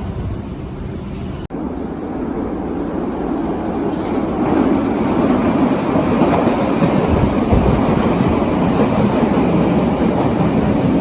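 Berlin U-Bahn large-profile train running on the line, a steady rumble that grows louder about four seconds in and stays loud.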